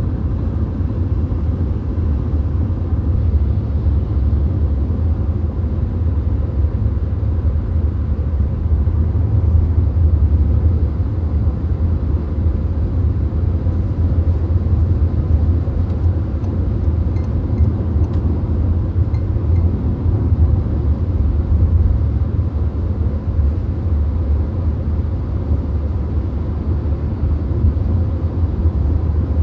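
VW Golf cruising at highway speed, heard from inside the car: a steady low rumble of tyre, engine and wind noise.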